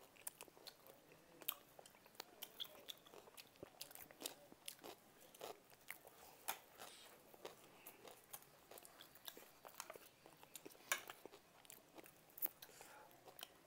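Faint close-up eating sounds: chewing and biting, with many small irregular clicks and wet mouth noises.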